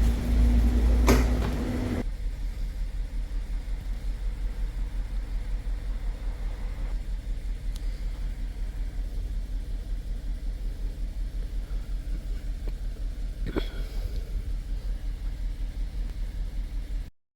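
Kia K5's 2.0 LPG four-cylinder engine idling with a low, rhythmic pulsing beat: the engine is running very roughly (a severe misfire) with the check-engine light on. It is louder and steadier for the first two seconds, then settles into the even pulsing, which cuts off abruptly near the end.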